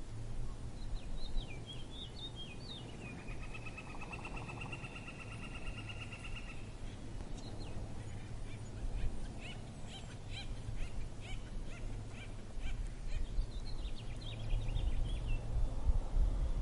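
Birds chirping: a run of high, downward-gliding chirps, then a steady trill for about three and a half seconds, then scattered short chirps, over a low steady rumble.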